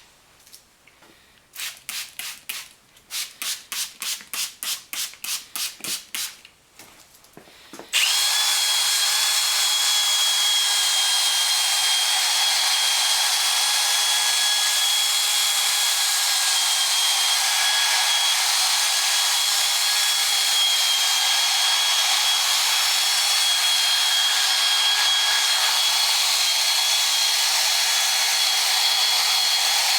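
A run of short, even strokes, about three a second, then about eight seconds in a power drill starts up and runs steadily with a high whine, spinning a sanding disc on its backing pad against a plastic headlight lens at 600 grit.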